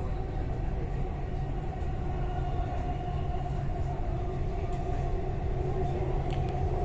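Dubai Metro Red Line train running along the track, heard from inside the carriage: a steady low rumble with a faint steady whine over it.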